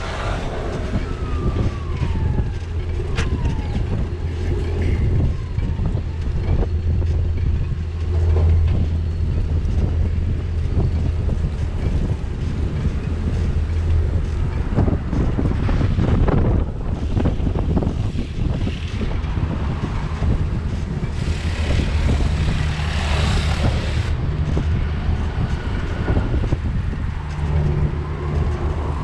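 Bicycle riding over wet city streets, heard from a camera mounted on the ride. A steady low rumble of tyres and wind runs throughout, with scattered rattles and knocks. A louder hiss lasts a couple of seconds a little past the middle.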